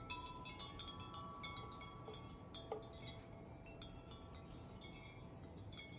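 Wind chimes ringing faintly in many irregular strikes, their metallic tones overlapping and ringing on, set swinging by gusts of a windstorm.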